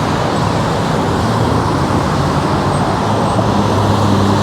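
Road traffic: cars driving past on a busy street, a steady rush of tyre and engine noise with a low engine hum underneath.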